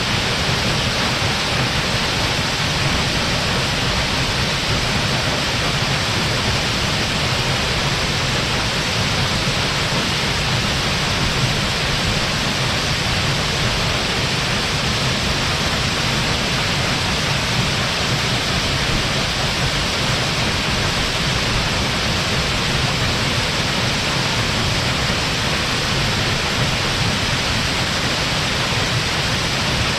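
A waterfall pouring, a steady, unbroken rush of falling water.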